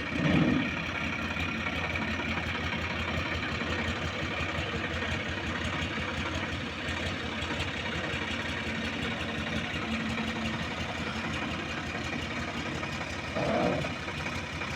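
Tractor diesel engine idling steadily, with two short louder sounds, one just at the start and one about a second before the end.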